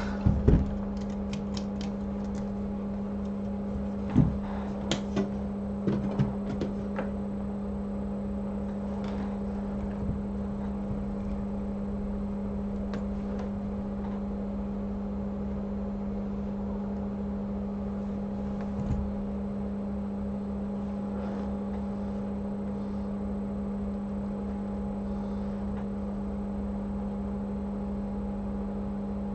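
Steady machine hum from bench equipment, with light clicks and taps of tools in roughly the first seven seconds and a few single clicks later.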